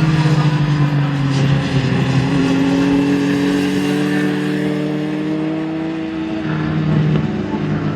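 Sport motorcycle engine running hard at high revs on a race track, its note slowly falling and then climbing again as the throttle and gears change.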